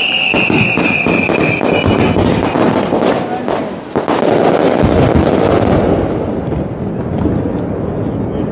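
Fireworks display: a dense barrage of shell bursts and crackling, with a falling whistle in the first two seconds and a heavier run of bangs starting about four seconds in.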